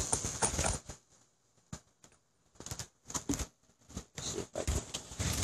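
Handling noise: a rustle in the first second, then scattered light clicks and taps with short quiet gaps between them.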